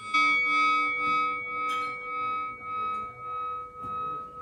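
A metal bell struck once and left ringing, its tone wavering in a slow pulse as it dies away. A faint knock is heard under it about two seconds in.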